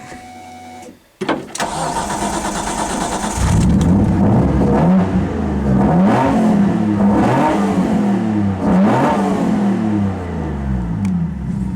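Nissan RB25DE straight-six on GTR individual throttle bodies starting up about a second in, then given several quick throttle blips that rise and fall before it settles back to a steady idle near the end.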